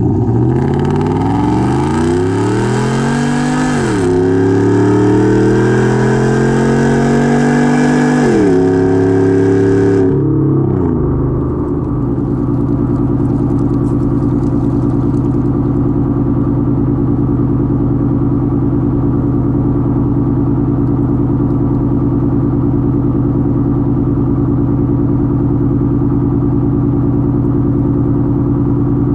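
Catless V8 exhaust of a Roush F-150 accelerating hard: the engine note climbs, drops at an upshift about four seconds in, climbs again and drops at a second upshift, then falls away about ten seconds in and settles at steady revs.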